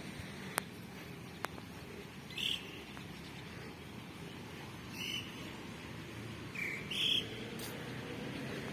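A bird calling with short chirps, four in a few seconds, over a steady low outdoor hum.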